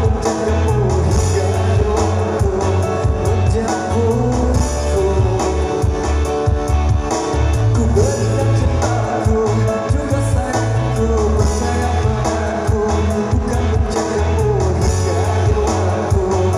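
Indonesian pop song performed live: a male voice singing over a band backing with a steady beat.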